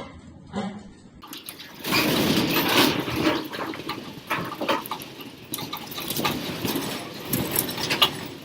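A building and its contents shaking hard in an earthquake: loud, continuous rattling and rumbling with many knocks and clatters of things striking and falling. It starts suddenly about two seconds in.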